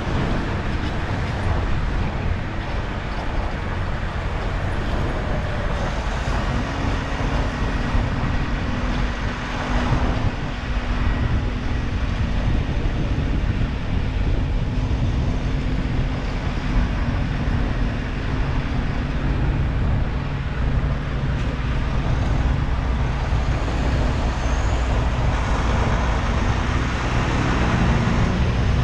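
Heavy diesel truck engine running steadily with road and traffic noise, its engine note shifting a few times.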